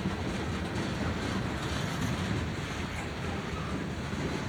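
Freight train rolling past, a steady rumble of wheels on rail.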